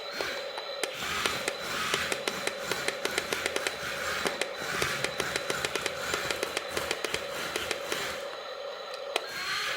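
Small electric motor of a toy RC truck whining steadily, with many rapid, irregular clicks and crunches that thin out near the end.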